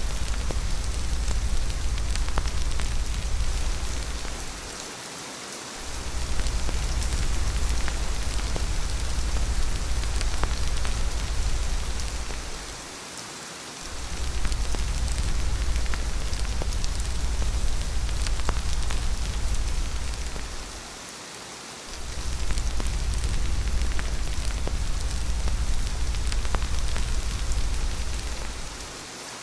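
Steady rain with a deep low rumble underneath. The whole sound dips for about a second roughly every eight seconds, four times, then comes back at full strength.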